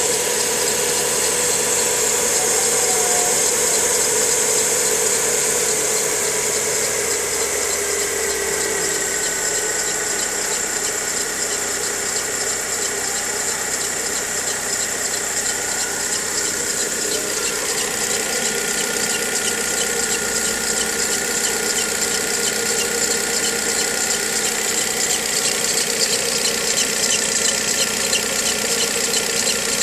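Volkswagen Gol G6 engine idling with a steady squealing whine over its running, its pitch easing slightly lower about ten seconds in. The dealer first blamed a stiff alternator belt; the noise was finally traced to a defective timing belt.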